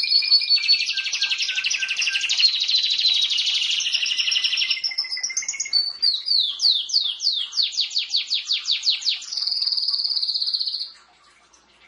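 Canary singing a long, fast song: rapid high trills, then a quick run of repeated downward-sliding notes, ending in a steady rolling trill that stops abruptly about eleven seconds in.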